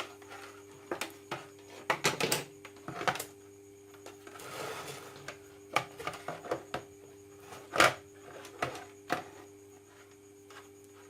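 Scattered light clicks and taps of multimeter probes and mixer grinder parts being handled, with a short rubbing scrape about four and a half seconds in, over a faint steady hum.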